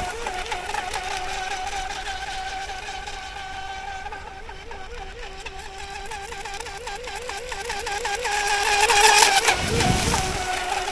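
Brushless electric motor of a radio-controlled outrigger racing boat whining as the boat runs across the water, its pitch wavering up and down several times a second. It grows louder with a rush of water about nine seconds in as the boat passes close.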